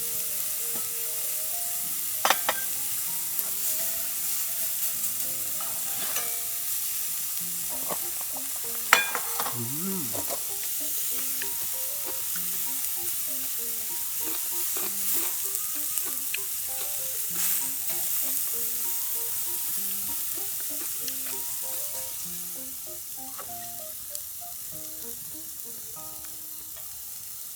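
Beef steak sizzling as it sears in an oiled grill pan, a steady frying hiss that eases off a little in the last few seconds. A few sharp clicks of a utensil against the pan, the loudest about nine seconds in.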